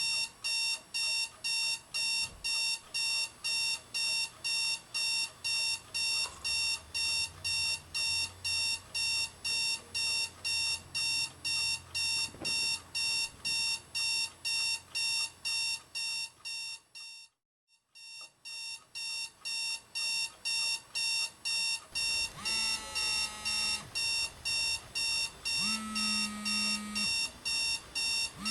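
Electronic alarm clock beeping in a fast, even rhythm, about three beeps a second. The beeping stops briefly a little past the middle and starts again, and near the end some other held tones sound over it.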